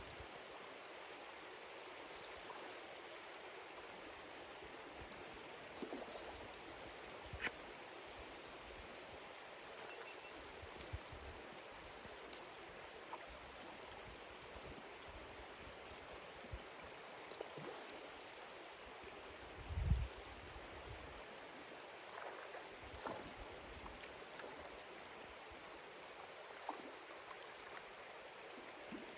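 A small mountain stream running: a steady rush of water, with scattered light clicks and a short low thump about two-thirds of the way through.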